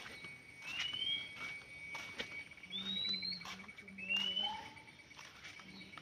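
Birds calling: short, rising whistled notes repeated every second or two, over a steady high insect-like trill, with faint footsteps on a dirt path.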